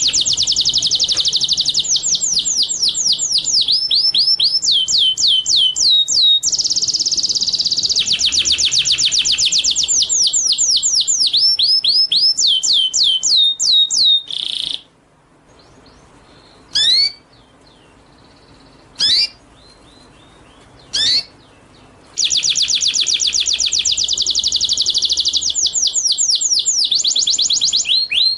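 A songbird singing in very fast runs of repeated high, downward-sweeping whistled notes, the trill-like runs changing speed and pitch from phrase to phrase. About halfway through, the runs stop for several seconds, broken only by three short rising whistles, then the fast runs start again.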